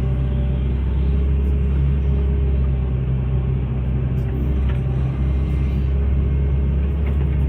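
Hitachi excavator's diesel engine running at a steady pitch.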